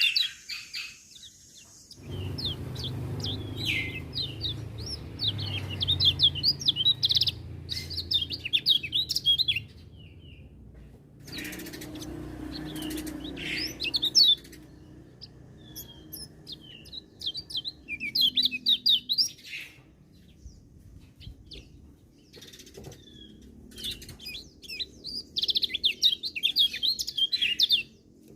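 Kecial kuning (white-eye) songbird singing in fast, high twittering phrases of rapid chirps and trills, several seconds each, broken by short pauses. Through parts of it there is a low rumbling background that starts and stops abruptly.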